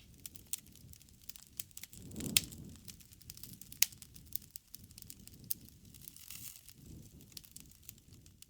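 Campfire crackling: irregular sharp pops and snaps over a low rumble of burning wood, with a louder flare of pops a little over two seconds in.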